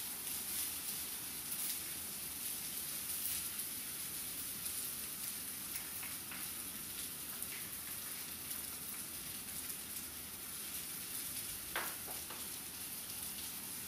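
Diced mushrooms and vegetables sizzling steadily in a hot stainless steel wok, with light stirring from a wooden spatula and one sharp knock of the spatula against the wok a little before the end.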